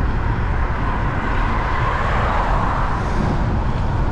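Steady wind and road noise from riding on a wet road, with a vehicle swelling past about two seconds in.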